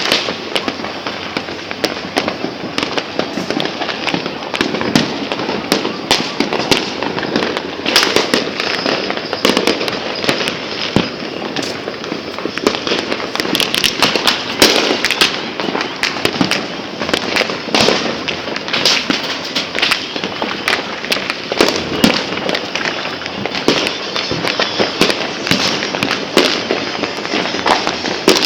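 Many fireworks and firecrackers going off all around at once: a dense, continuous crackle of bangs and pops, with louder reports every second or so.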